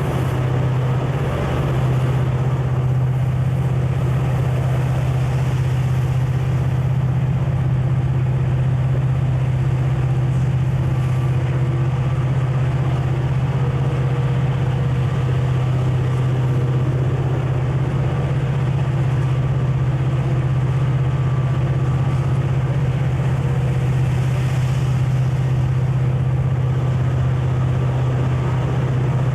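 Conrail diesel locomotive engine running with a steady low drone and rail-travel rumble, unchanging throughout.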